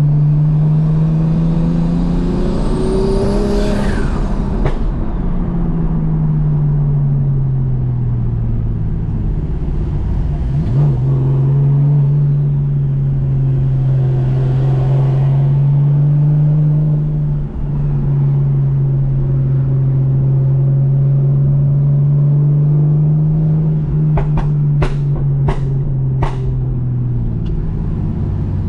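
Single-turbo BMW M2 Competition straight-six with a direct, downpipe titanium exhaust pulling up through the revs, with a high whine rising along with it. It comes off the throttle about five seconds in and settles to a steady drone. A few sharp clicks near the end.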